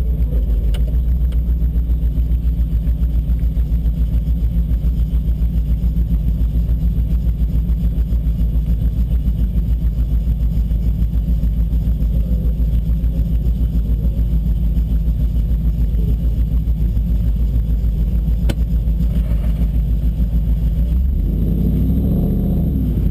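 Car engine idling with a steady, low, pulsing rumble. Near the end the engine note briefly rises and falls.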